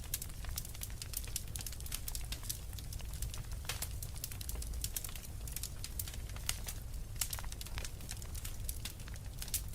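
Wood fire crackling in a fireplace: many sharp irregular pops and snaps over a steady low rumble of flame.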